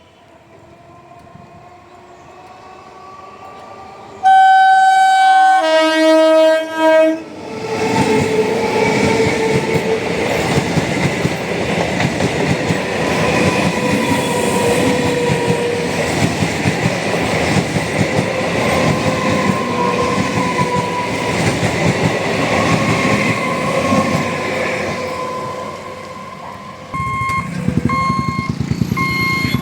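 A train comes closer, sounds its horn in two loud blasts, then passes close by for about twenty seconds with a steady rumble of wheels on rails and a humming whine. Near the end a regular electronic beep starts, about once a second.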